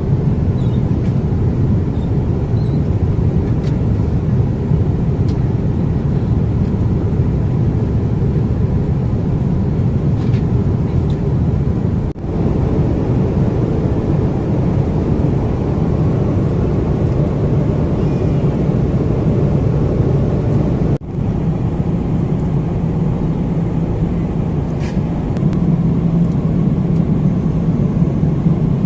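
Airbus A330-300 cabin noise in flight: a loud, steady rush with a low rumble. It drops out for an instant twice, once near the middle and once later on, where the recording is cut.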